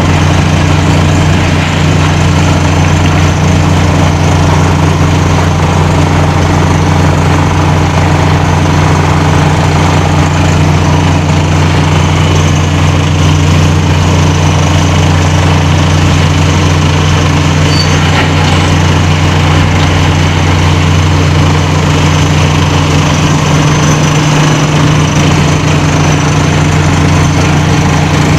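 Heavy machinery running with a steady, unchanging low drone made of several held tones, with no rises or falls in pitch.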